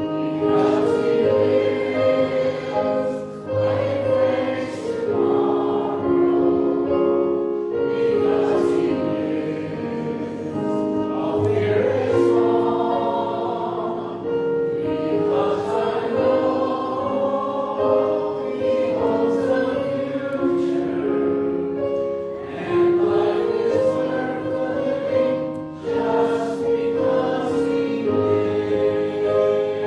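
A choir singing in harmony, the held chords shifting every second or two.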